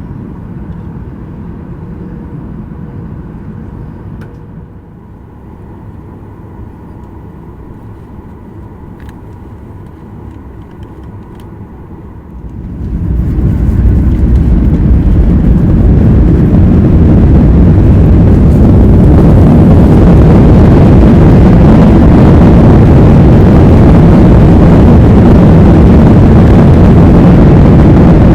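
Helicopter engine and rotor noise heard from inside the cabin. A steady hum runs for the first dozen seconds, then the sound rises sharply over about a second and stays much louder and steady.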